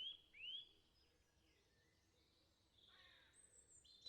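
Near silence, with a few faint, quick bird chirps in the first half second.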